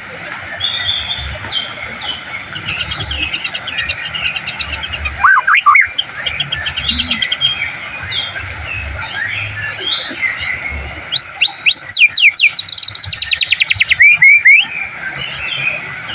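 White-rumped shama (murai batu) singing: loud rising whistled notes about five seconds in and again from about eleven seconds, with a fast trill in between, over softer continuous twittering.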